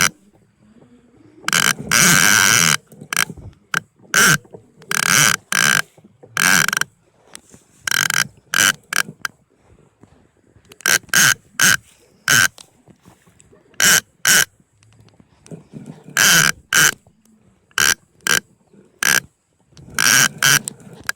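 Fishing reel drag buzzing in repeated short bursts, some about a second long and others briefly, as a hooked pacu pulls line off against the drag.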